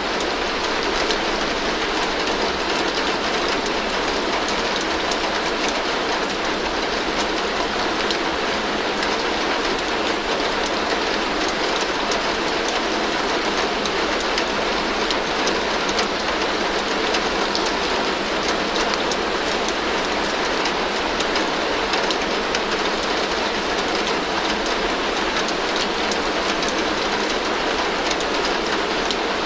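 Heavy rain falling steadily on a tin roof: a dense, even patter of drops on the metal that keeps one level throughout.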